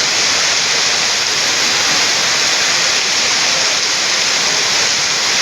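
Heavy rain falling, a loud, steady hiss with no breaks.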